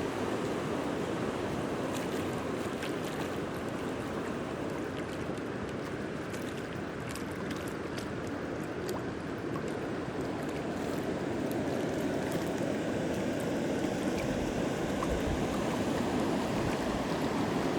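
Steady rushing of flowing water from a stream or spring.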